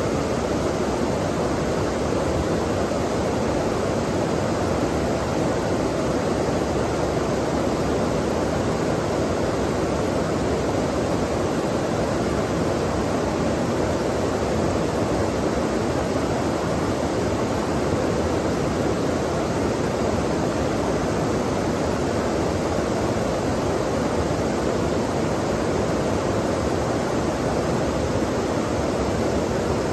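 Flowing stream water rushing steadily, an even, unbroken rush without splashes or other events.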